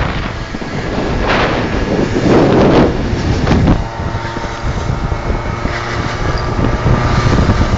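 Motorcycle engine running on the move, with loud wind buffeting the microphone in gusts during the first few seconds.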